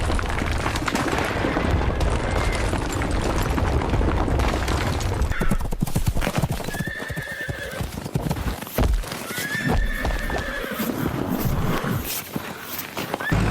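Horse hoofbeats clip-clopping steadily, with two short neighs, one about seven seconds in and one about ten seconds in.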